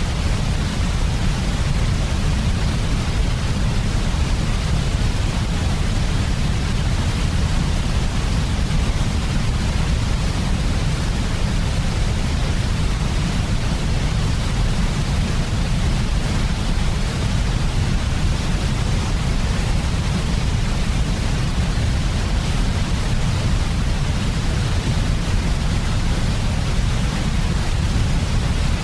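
Steady, unchanging synthetic white noise for sleep, heaviest in the low end, like a deep rushing hiss.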